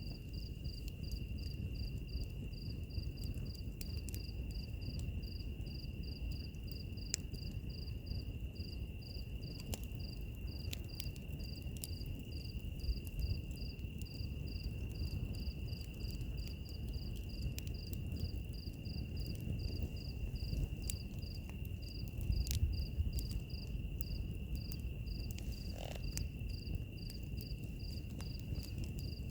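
Wood fire crackling, with scattered sharp pops over a steady low rumble. Insects chirp throughout: one steady high trill and a second, higher chirp pulsing about three times a second.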